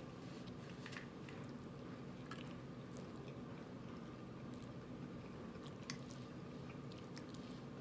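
Close-up mouth sounds of a person chewing food, with small wet smacks and occasional soft clicks, over a steady low hum.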